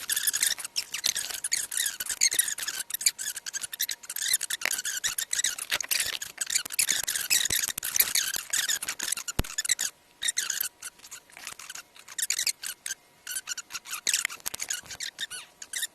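Knife packaging being unboxed in fast-forward: a rapid, high-pitched patter of clicks, crinkles and squeaks from cardboard and plastic, quieter for a couple of seconds about ten seconds in.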